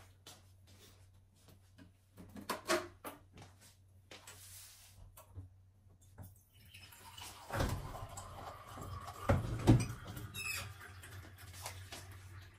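Household handling sounds: scattered light clicks, taps and rustles, growing busier and louder about seven seconds in, with two sharper knocks a little after nine seconds in.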